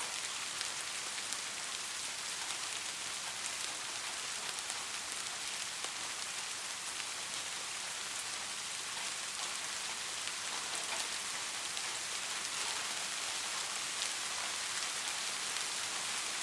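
Steady rain falling and pattering on a surface, a continuous hiss with many small drop impacts.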